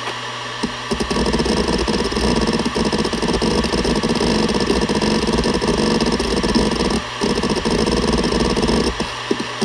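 Seagate Barracuda ES.2 ST31000340NS 7200 rpm hard drive seeking continuously: a dense, rapid chatter of the head actuator starts about a second in, breaks off briefly near seven seconds and stops near the end. It sits over the steady hum and whine of the spinning platters.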